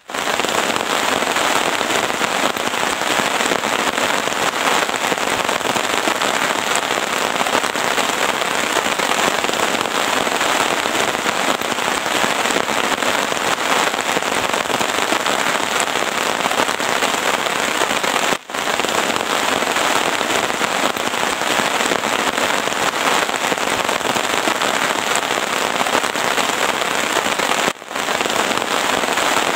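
Heavy rain falling steadily, a dense crackling patter of drops on a surface, dropping out for an instant twice.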